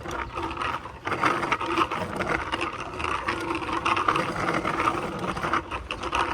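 Child's bicycle with training wheels rolling along: a steady whir and rattle from the wheels, with many small rapid ticks.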